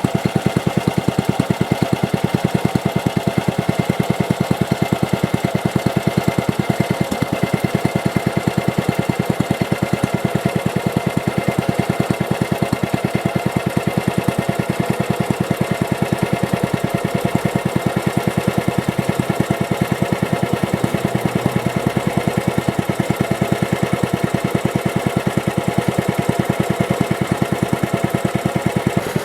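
Mitsubishi Meiki G5L-3A air-cooled kerosene engine running steadily, its exhaust pulsing in an even, rapid beat.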